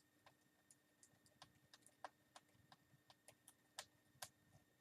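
A string of faint, irregular light clicks and taps, a few a second, from handling the laptop's screen lid and small parts.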